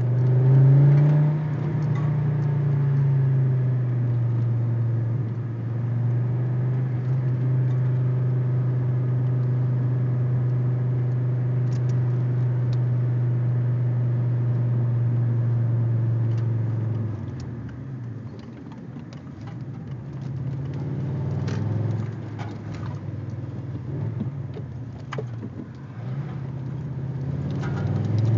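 Audi 80 B4 2.3E's inline five-cylinder engine running through a Fox aftermarket exhaust. Its note climbs about a second in and then holds a steady drone at constant revs. About two-thirds of the way through the revs drop off and the note goes quieter, then it climbs again right at the end.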